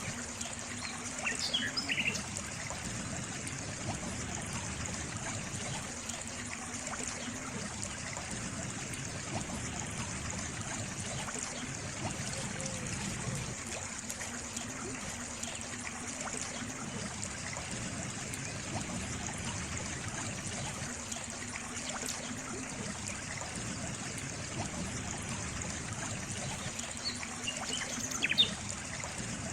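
Water trickling steadily, like a small stream. A few short bird chirps come about two seconds in and again near the end.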